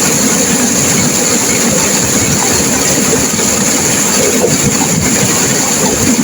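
Turbulent river water rushing and crashing, a loud, steady, unbroken rush of noise.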